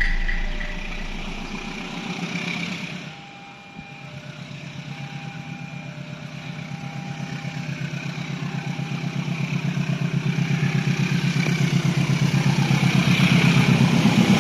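A vehicle engine running with a rapid, even throb that grows steadily louder through the second half, after a low rumble fades away in the first two seconds.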